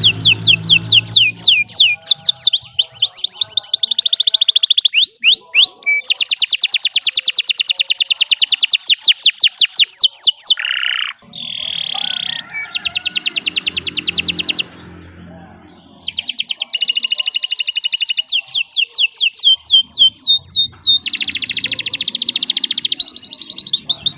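Domestic canary singing a long, continuous song of high trills: runs of rapidly repeated notes alternate with slower sweeping phrases, with a brief break about halfway through.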